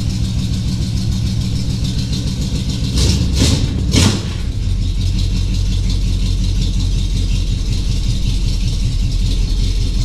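Chevelle's carbureted engine idling steadily, freshly started after sitting about two weeks. It gets briefly louder twice, about three and four seconds in.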